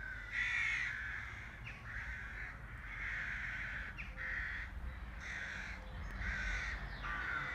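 A bird calling over and over: about seven short calls in a row, roughly one a second.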